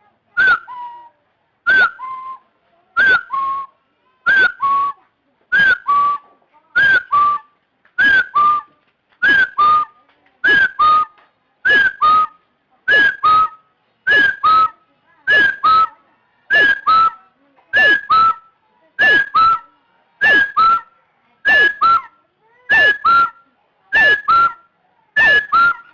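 Chinese francolin calling: a short, whistled two-note phrase repeated steadily about every 1.3 seconds, around twenty times, the second note edging slightly higher in pitch as it goes.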